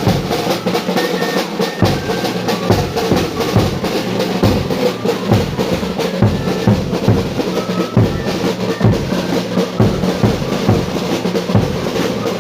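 Live music from a small group of musicians: drums beat steadily, with a faint higher melody line above them.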